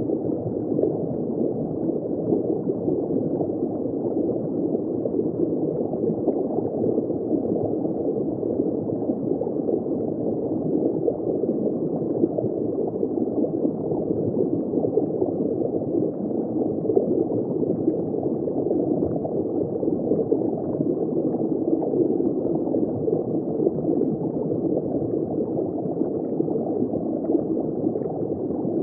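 Underwater ambience: continuous bubbling and gurgling water heard from just below the surface, a steady muffled rush with dense small pops and nothing high-pitched.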